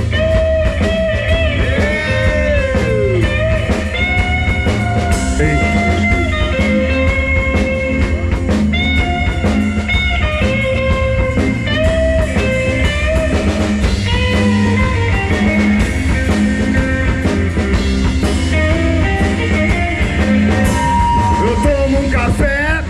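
Live rock band playing an instrumental blues-rock passage: a lead electric guitar plays sustained notes with pitch bends over bass and drums.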